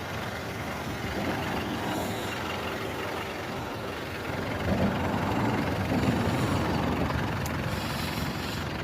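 Land Rover Defender 130 Tdi turbo-diesel driving along, a steady mix of engine and road noise that gets a little louder about five seconds in.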